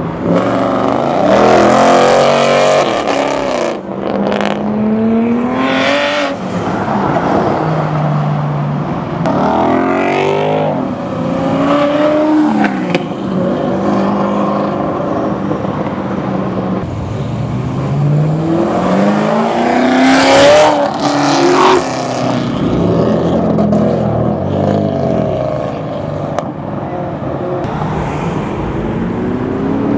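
Performance cars accelerating hard one after another as they pull away, engines revving up and shifting through the gears several times, with an engine drone between the pulls.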